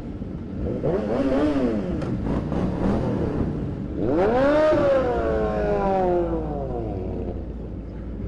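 Sportbike engine revving: a short blip about a second in, then a harder rev about four seconds in whose pitch rises and then slowly falls away over a couple of seconds, over other bikes running.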